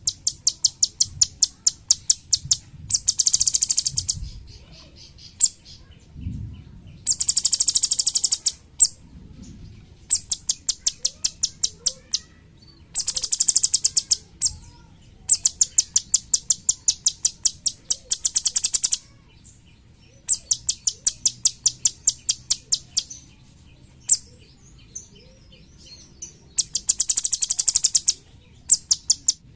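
Cucak cungkok singing: high-pitched, rapid chattering trills of evenly repeated notes, delivered in bursts of one to three seconds with short pauses between.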